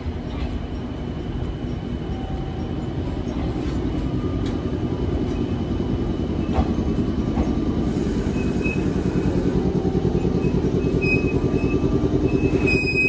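A train running, its low rumble growing louder, with a fast regular pulsing of about four beats a second in the second half.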